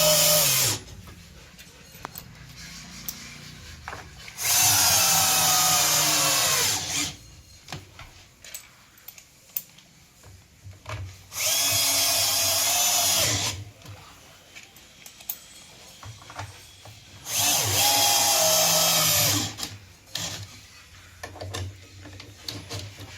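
An electric drill-driver runs in three bursts of two to three seconds each, with the tail of another just at the start. Its pitch sags in each burst as it drives screws home. Small clicks and knocks of parts being handled come between the bursts.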